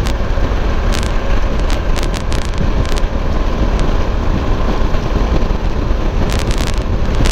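Wind rushing over the microphone and a low, steady rumble of engine and road noise from a Suzuki V-Strom 1050 V-twin motorcycle cruising at interstate speed. Short crackles come through between one and two and a half seconds in and again near the end.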